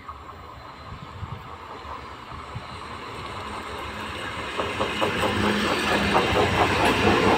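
ICF-built electric multiple unit local train approaching and passing close by, its rumble growing steadily louder, with wheels clattering over the rail joints from about halfway through.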